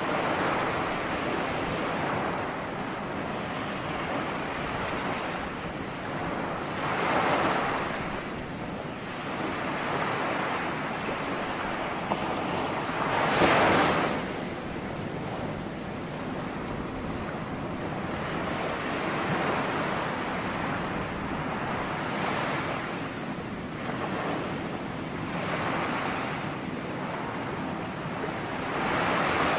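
Ocean waves breaking: a steady wash of surf that swells every few seconds, loudest about halfway through.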